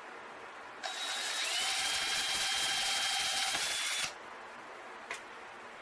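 Electric drill running for about three seconds, boring a hole through a 3/4-inch PVC pipe with a steady whine, then stopping abruptly. A short click follows about a second later.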